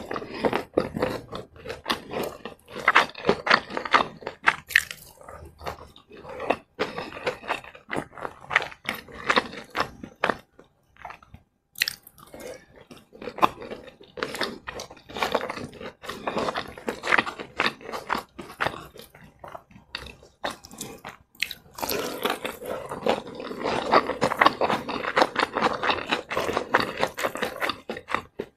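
Close-miked chewing and crunching of crispy fried chicken and rice, a dense run of irregular crackly crunches with brief lulls, heaviest in the last several seconds.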